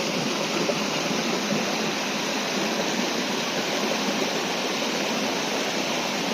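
Steady rushing of a moorland river tumbling over small waterfalls and rocks.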